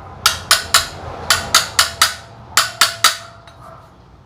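Sharp metallic taps on the valve assembly of a TMX 155 cylinder head, in quick runs of three or four at about four a second, each with a short ring. The taps seat the freshly fitted valve locks in their retainers.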